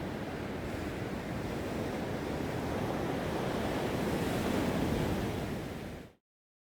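East Sea surf breaking heavily on the beach, a continuous rushing wash that swells about two-thirds of the way through, then cuts off abruptly at about six seconds.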